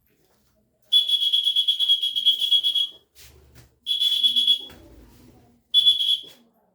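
A shrill, warbling high whistle sounds three times: a long blast of about two seconds, then a shorter one, then a brief one near the end.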